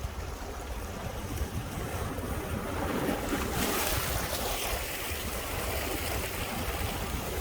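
Sea waves breaking on shore rocks, one wave crashing about halfway through and its wash hissing away slowly, under a steady rumble of cold winter wind.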